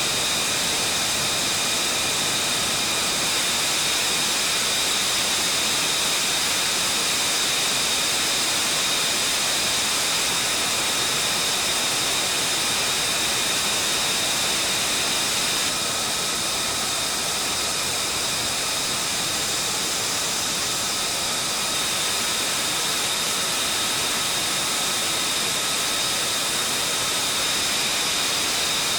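Fighter jet engine running steadily, a strong rushing roar with a high, even whine over it; the sound shifts slightly about 16 seconds in.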